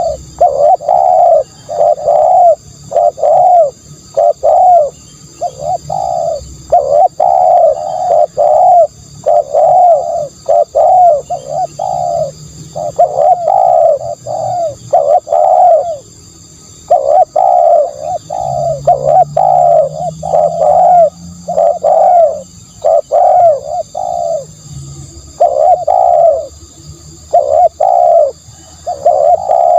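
Spotted dove cooing over and over, each phrase a short run of two to four low, mellow coos, with brief pauses between phrases. A loud, continuous lure recording of the dove's call.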